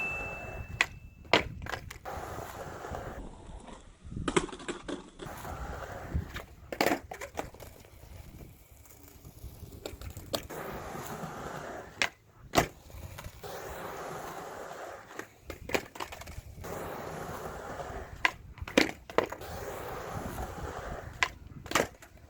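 Skateboard wheels rolling, broken again and again by sharp cracks and slaps as the board is popped into tricks and lands or hits the ground.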